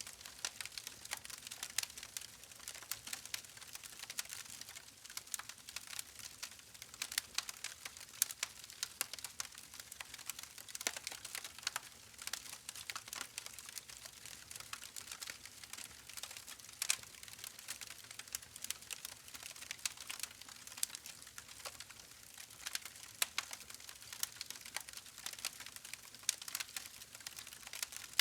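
Campfire crackling: a steady stream of quick, irregular pops and snaps over a soft hiss.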